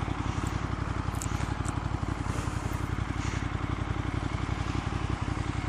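Ducati Monster 1200 R's L-twin engine running steadily through a Termignoni slip-on exhaust fitted with dB killers, an even low pulsing at an unchanging pitch.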